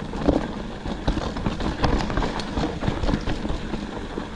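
Mountain bike rolling fast over rough singletrack: a steady rumble of tyres on dirt and rock with frequent small knocks and rattles from the bike.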